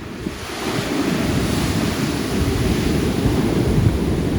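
Pacific Ocean surf: a wave breaking and washing, its hiss swelling about half a second in and holding, with wind rumbling on the microphone.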